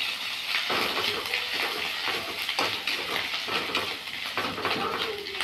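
Onions, garlic and whole spices frying in hot oil in a wok: a steady sizzle, with a spatula stirring and scraping through them a few times.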